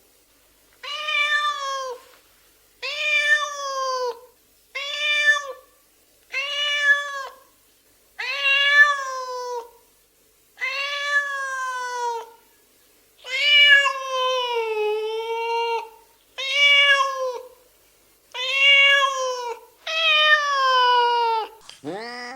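A domestic cat meowing over and over: about ten drawn-out meows with short pauses between them, each one sliding down in pitch at the end.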